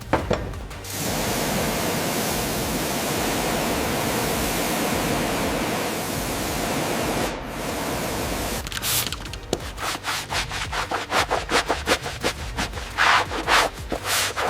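Abrasive rubbing on a surface: a steady hiss for about six seconds. After a short break come quick rubbing strokes, several a second.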